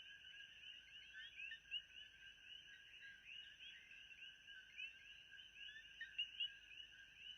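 Faint nature ambience: a dense chorus of many small overlapping chirps, with a steady high-pitched drone underneath.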